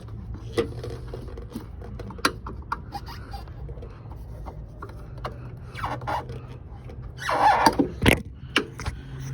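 A screwdriver prying at a plastic wiring-harness clip: scattered clicks and scrapes, with a louder scrape about seven seconds in and a sharp click just after, as the clip works loose. A steady low hum runs underneath.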